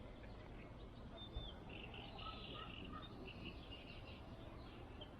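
Songbirds chirping and twittering in quick high notes, busiest in the middle, over a steady low rumble; a single soft knock about a second and a half in.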